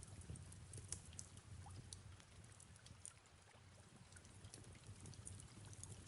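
Faint fireplace crackling: scattered small sharp pops over a soft, even hiss of rain and a low rumble.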